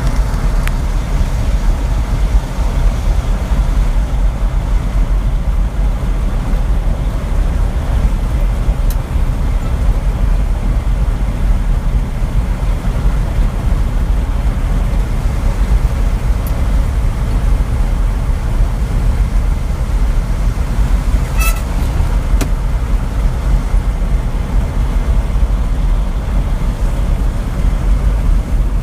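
Truck driving on the road: a steady low rumble of engine and road noise that stays even throughout, with a single brief click roughly three-quarters of the way through.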